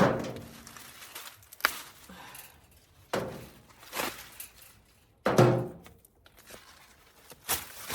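Dry loofah gourds being pulled and snapped off the vine by hand: a series of about six hollow thunks and knocks, the deepest one about five seconds in.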